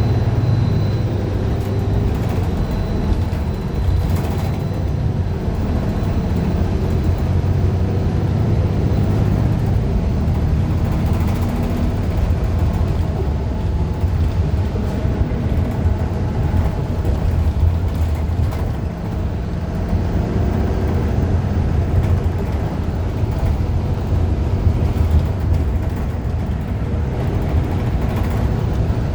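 Interior ride sound of a 2015 Gillig Low Floor 40-foot CNG transit bus: its Cummins Westport ISL G engine and drivetrain run under a steady low rumble of road noise, with occasional short rattles. The bus has an Allison B400R automatic transmission that the uploader calls messed up.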